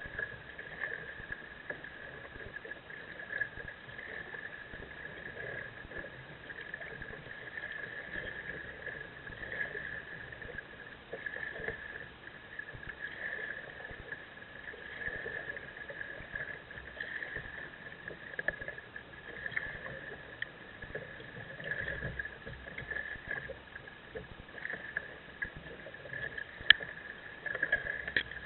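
Kayak paddle dipping and splashing in the lake water with each stroke, swelling about once a second, with one sharp knock near the end.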